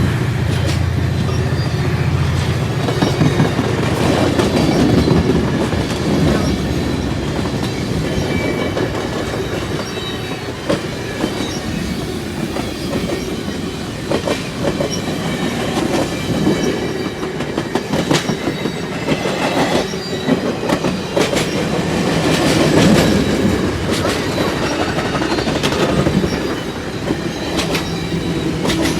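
Passenger train cars rolling past at speed, wheels clicking steadily over rail joints. A locomotive's engine hum fades out in the first couple of seconds.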